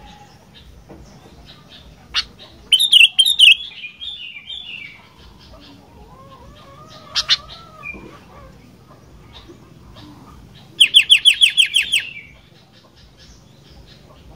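Sooty-headed bulbul (kutilang) calling in loud, sharp bursts: a harsh chattering phrase about three seconds in, then a fast run of about ten repeated notes near the end.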